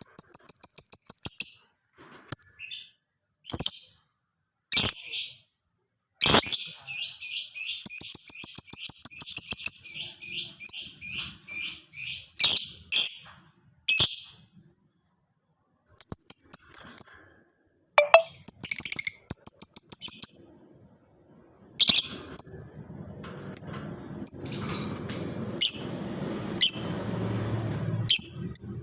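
Lovebird chirping in sharp, high-pitched bouts, with a long rapid run of chirps from about six to ten seconds in. In the last few seconds a faint low noise runs under the chirps.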